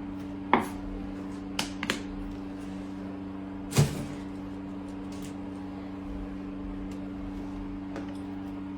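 Several short sharp knocks and clicks, the loudest nearly four seconds in, over a steady low hum.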